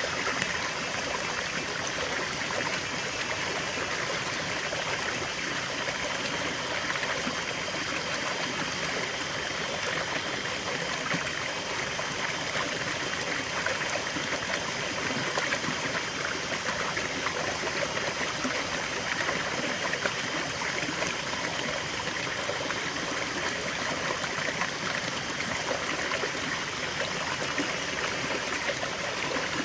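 Small stream of water trickling and babbling steadily over stones.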